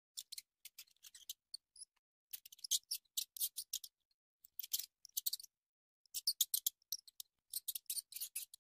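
Irregular clusters of short, sharp, high clicks or snips, with brief silences between the clusters.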